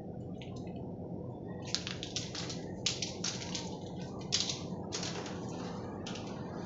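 An irregular run of short clicks and scratches, starting about two seconds in, over a steady background hiss.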